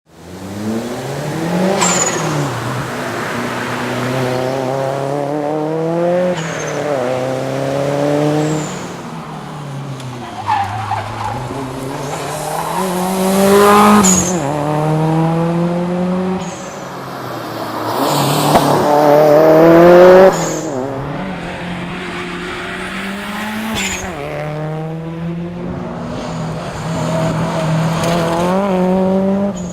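Subaru WRX STi's turbocharged flat-four engine pulling hard under acceleration, the pitch climbing and then dropping at each quick gear change, every few seconds.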